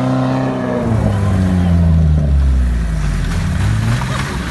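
Motocross bike engines revving: the pitch drops off in the first second, stays low through the middle, then climbs again as the throttle opens near the end.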